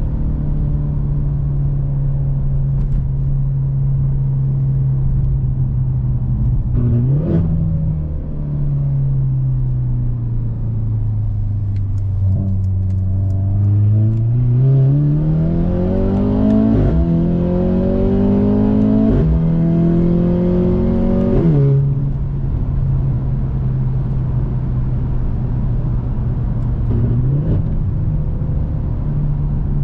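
Mercedes-AMG C43 (W206) 2.0-litre turbo four-cylinder through an Fi aftermarket exhaust with a catless downpipe. It cruises at a steady note, blips the revs briefly about seven seconds in, then accelerates hard from about the middle, with three quick upshifts where the pitch drops, before settling back to a steady cruise.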